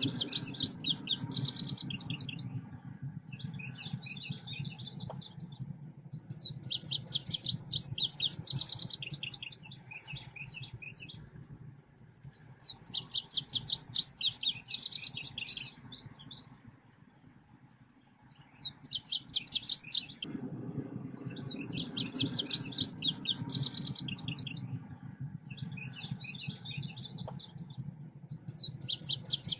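Selendang biru bird song, a lure (pikat) recording: bursts of rapid, high chirping phrases a few seconds long, repeating every few seconds with softer chirps between them, over a low steady hum.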